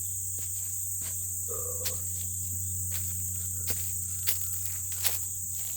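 Steady high-pitched insect chorus of crickets, over a low steady hum, with a few sharp clicks scattered through.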